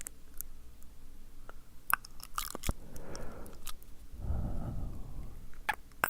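Close-miked ASMR mouth sounds: sticky, wet tongue and lip clicks scattered through, with soft breathy rushes about three seconds in and again around four to five seconds.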